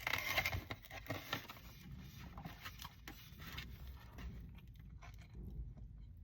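Faint sounds of eating a wrap: a brief rustle at the start, then scattered soft clicks and scrapes.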